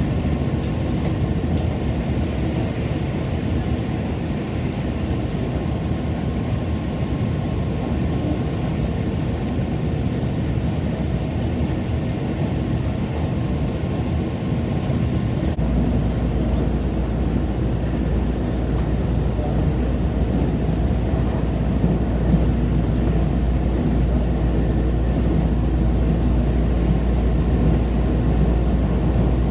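Train running on the rails, a steady rumble. About halfway through the sound changes abruptly and the deep rumble becomes stronger.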